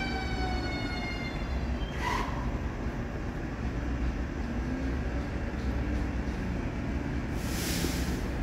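Train at a station platform: a steady low rumble, with a high whine that drops slightly in pitch and fades out within the first second or so. A short hiss comes about two seconds in, and a longer, higher hiss near the end.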